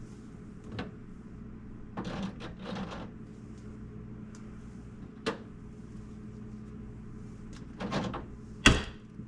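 Scattered knocks and clatters of items and shelves being handled inside a refrigerator, the loudest a sharp knock near the end, over a steady low hum.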